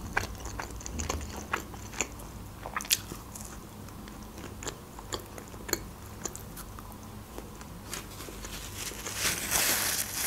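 A person chewing a slice of pizza, with many short, sharp crunchy clicks. About nine seconds in, a paper napkin rustles as it wipes the mouth.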